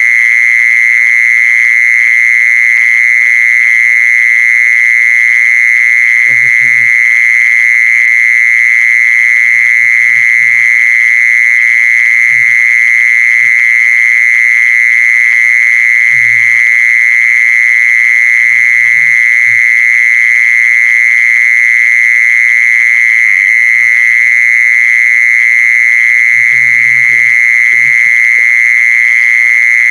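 An insect known in Thai as the jeeson, calling without a break: a steady, shrill, high-pitched trill.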